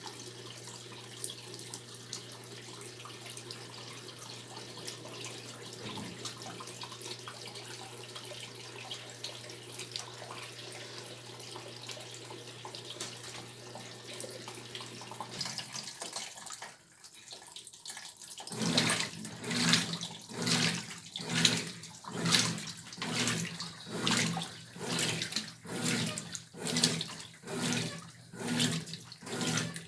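Brastemp 12 kg top-load washing machine: water runs into the tub with a steady low hum for about sixteen seconds, then stops, and a couple of seconds later the agitator starts turning back and forth, a rhythmic sloshing of water and clothes at about three strokes every two seconds.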